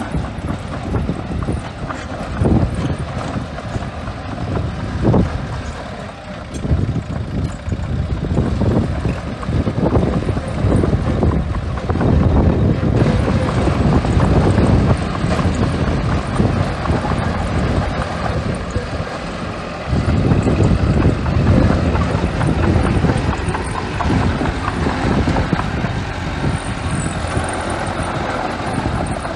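Small crawler bulldozer working, its diesel engine running under load. The sound swells and eases as it pushes, briefly drops about twenty seconds in, then picks up again.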